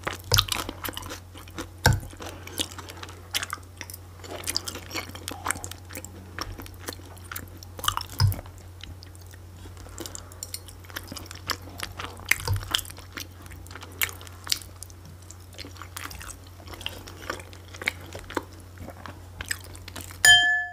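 Close-miked chewing and mouth sounds from eating, a run of small wet clicks and crunches. Near the end a metal fork strikes the dishware once with a bright ringing clink.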